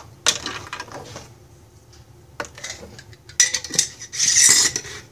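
Kitchen handling sounds: a measuring cup and containers clinking and clattering while freeze-dried chicken chunks go into a mylar bag, with scattered clicks and a louder burst of rustling a little after four seconds in.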